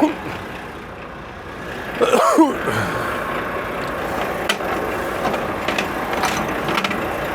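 Semi truck running in a yard, steadier and louder after about two seconds in, with a short squeal at that point and scattered clicks and mechanical knocks.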